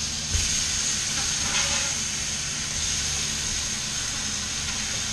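Chicken breasts, salmon fillets and vegetables sizzling steadily in oil on a hot flat-top griddle, with a metal spatula scraping and tapping on the griddle as the chicken is flipped, and a dull knock about half a second in.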